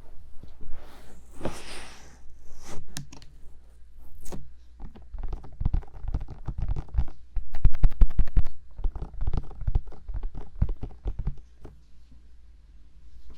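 Fingertips brushing and then tapping quickly on the silicone ears of a 3Dio binaural microphone, heard close and boomy: a few rubbing swishes first, then a long run of rapid taps that stops near the end.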